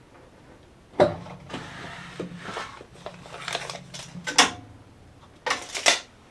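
Cedar fence-picket boards knocked, slid and handled on a workbench in a run of short knocks and scrapes, over a low steady hum that comes in about a second in.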